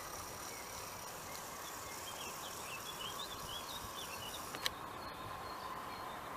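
Quiet outdoor background with a small bird singing a rapid run of short high chirps for about two seconds in the middle, and a single sharp click near the end.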